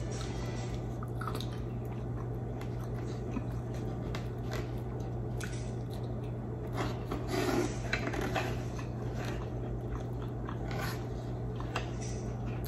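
Close-miked mouth sounds of someone eating cooked squid: soft chewing with scattered short clicks and smacks, a little louder about seven to eight seconds in. A steady low hum runs underneath.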